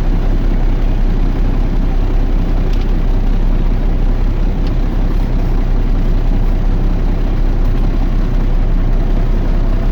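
Semi truck's diesel engine idling, a steady low drone with no change in speed.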